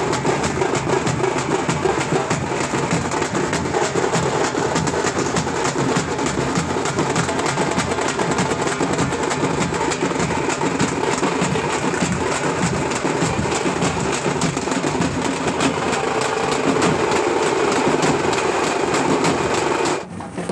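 A group of tamate frame drums, leather-headed and struck with sticks, playing a fast, loud, dense beat. The sound drops off suddenly near the end.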